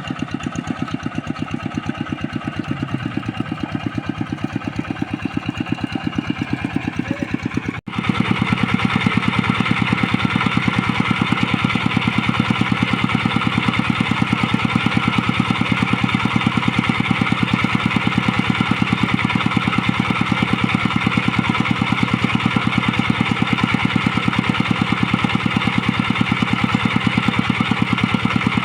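Single-cylinder diesel engine of a two-wheel hand tractor running steadily with an even rapid chug. It drops out for an instant about eight seconds in, then carries on louder.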